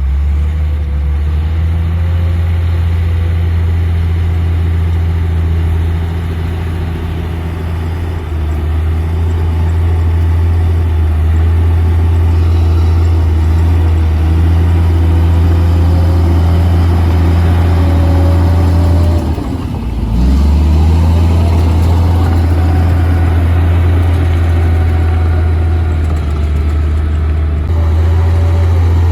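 Komatsu D58P bulldozer's diesel engine running steadily with a deep hum, dipping briefly about two-thirds of the way through before picking back up, with a faint wavering whine above it.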